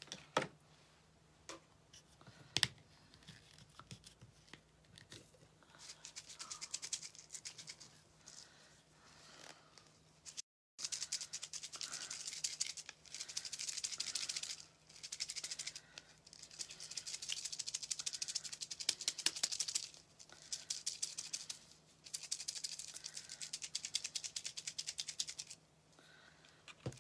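Small loose pieces rattling rapidly inside a container shaken by hand, in repeated bursts of a couple of seconds with short pauses. A few sharp clicks come before the shaking starts.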